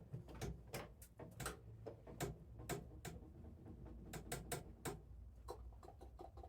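Irregular light clicks and taps, roughly two or three a second, from hands and tools handling metal parts of a snowblower's gear selector mechanism.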